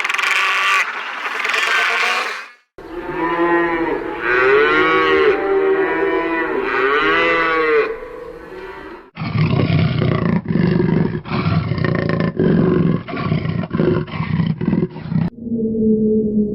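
Farm animal calls in several clips cut together. First come a series of drawn-out calls that rise and fall in pitch, then a stretch of rough, rapidly pulsing calls, and a lower steady call near the end.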